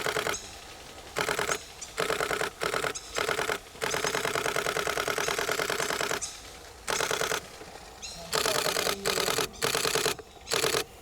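Nikon D500 DSLR shutter firing in rapid continuous-shooting bursts, several short runs of clicks and one long run of over two seconds near the middle.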